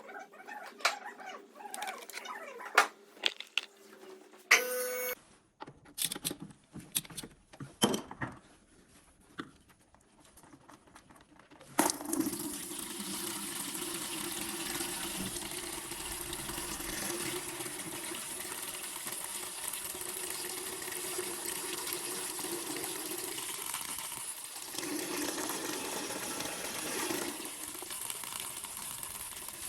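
Scattered clicks and knocks of tools, then a steady rushing of engine oil being drained that starts suddenly about twelve seconds in.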